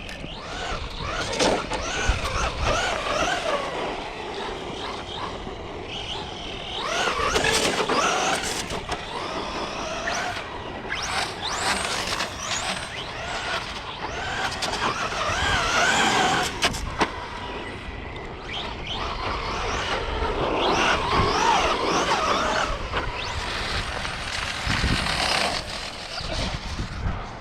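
Electric RC cars driven hard on pavement: their motors and geartrains whine, the pitch rising and falling constantly with the throttle, over the hiss of tyres scrubbing. Several sharp knocks come through, most of them in the middle.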